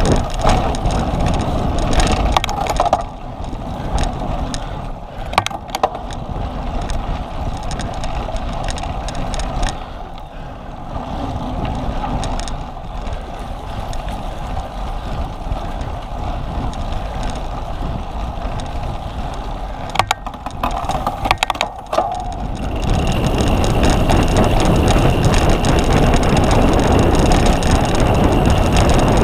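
Cyclocross bike being raced over rough ground: a steady rush of tyre and wind noise with scattered rattles and clicks from the bike, a cluster of sharp knocks, then a louder, denser rush of noise for the last several seconds.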